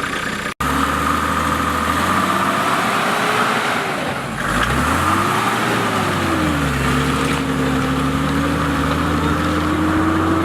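Off-road vehicle engine running under way, its revs dipping and climbing back twice near the middle, then holding steady and slowly rising.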